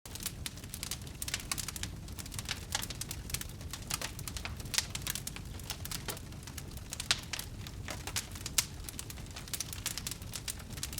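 Wood fire crackling: irregular sharp pops and snaps over a low steady rumble, with a few louder pops about 5, 7 and 8½ seconds in.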